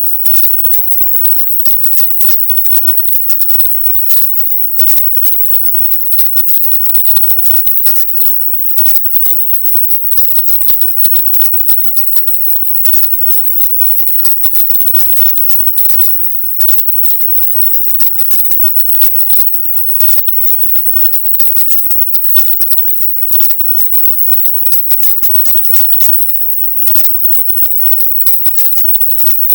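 Loud, dense crackling static from a processed 'silent subliminal' audio track. It is hissiest at the very top of the range and is broken by many brief dropouts, a few of them lasting a fraction of a second.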